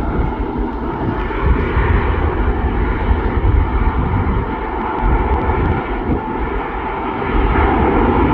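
Jet airliner's engines running loud: a heavy rumble with a steady whine over it, swelling again near the end.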